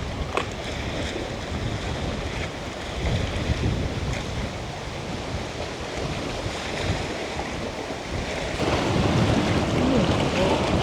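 Wind buffeting the microphone: a gusty low rumble over a steady rushing hiss. It grows louder about nine seconds in.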